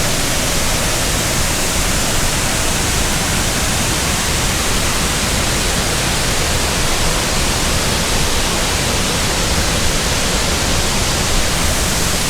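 Steady, loud rushing of a waterfall and the rapids below it, an even roar with no breaks.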